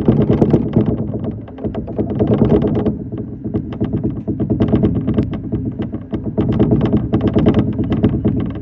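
Shinano Railway SR1 series electric train running at speed, heard from the cab: a steady low rumble with a dense, irregular clatter of wheel and track knocks.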